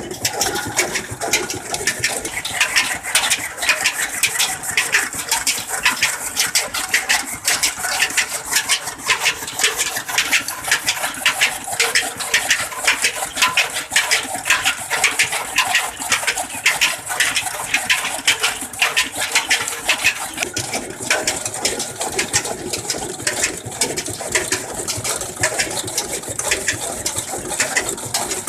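Desi stationary engine running steadily with a fast, even beat.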